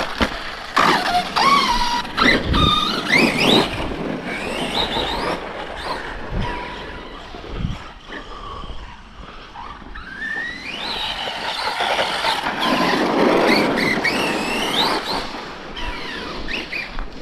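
Brushless electric motors of radio-controlled stunt trucks revving hard, their whine rising and falling in pitch over and over, with a few sharp knocks of the trucks landing or hitting the ground.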